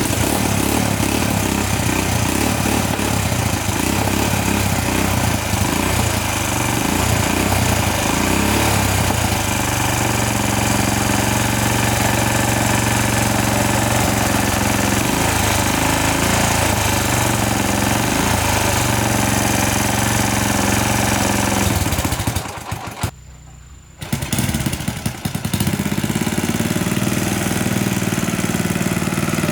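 1989 Hyosung motorbike's engine running steadily. It cuts out for about a second near the end, then runs again.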